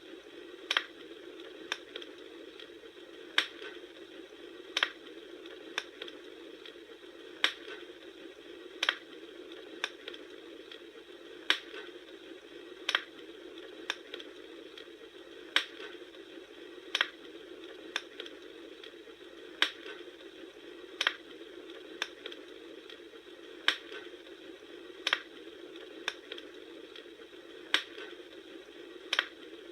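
Bonfire crackling: sharp pops about once every second or so over a steady low hiss. The pops fall in the same pattern of three every four seconds or so, as in a short repeating loop.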